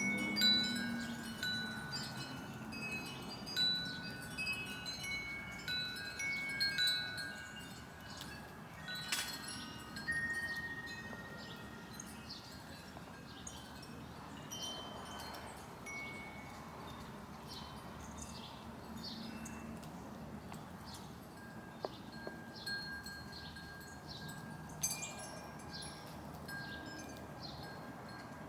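Wind chimes ringing irregularly, their tones busy for the first ten seconds or so and then sparser.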